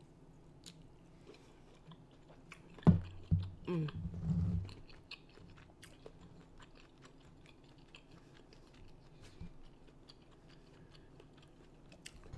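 Close-miked chewing of a bite of seafood in a chili-lime cilantro sauce, with many small clicking mouth sounds. A sharp thump about three seconds in is followed by a second or so of louder low sounds.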